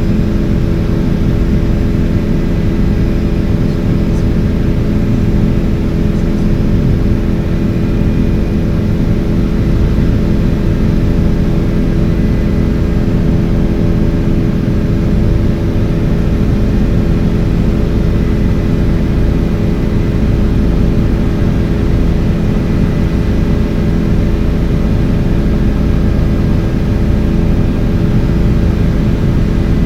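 Helicopter in flight heard from inside the cabin: a loud, steady drone of engine and rotors with several steady hum tones in it.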